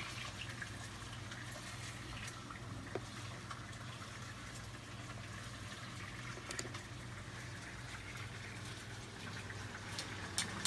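Tomato sauce simmering in a pan: a faint, steady bubbling hiss over a low hum, with a few light clicks, two of them near the end.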